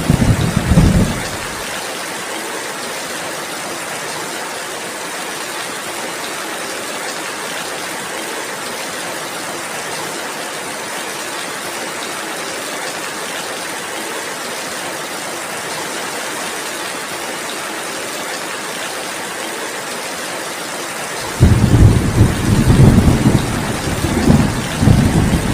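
Steady rainfall, an even hiss throughout. A loud, low, fluttering rumble fills the first couple of seconds, stops abruptly, and cuts back in sharply about four seconds before the end.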